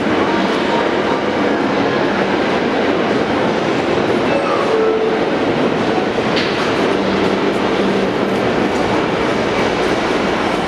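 New York City Subway R46 train running on the rails, a loud, steady rumble of wheels and cars with some clatter, unbroken throughout.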